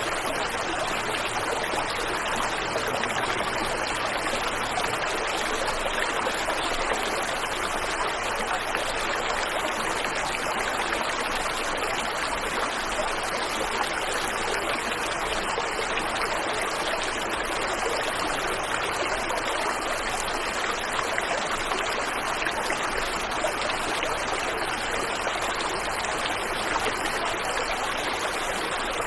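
Waterfall and river water rushing, a steady even hiss with no change.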